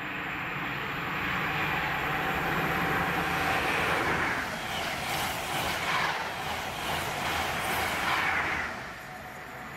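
A Class 43 High Speed Train passes at speed on the main line: a loud, steady rush of wheel and engine noise builds as it arrives and holds through the pass. It drops off sharply about nine seconds in once the rear power car has gone by.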